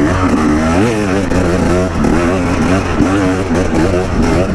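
A vehicle engine runs with a steady low hum under indistinct voices.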